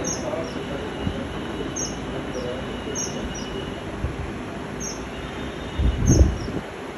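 Small caged birds chirping, short high chirps repeating about once a second over a steady rumbling background noise. A louder low bump comes near the end.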